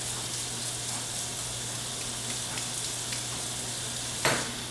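Water running steadily from a sink tap as freshly sharpened knives are rinsed and wiped down, with a sharp knock near the end.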